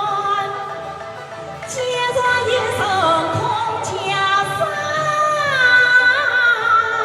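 A voice singing a long, drawn-out melodic line in traditional Chinese opera style, with held notes, slow slides in pitch and vibrato.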